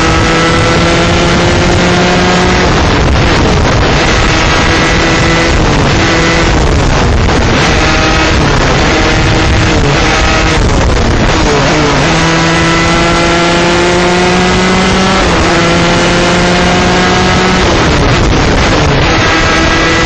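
A 125cc two-stroke shifter kart engine being raced hard. The engine note climbs steadily in each gear and drops back at each upshift, then falls in quick steps through downshifts under braking before climbing again.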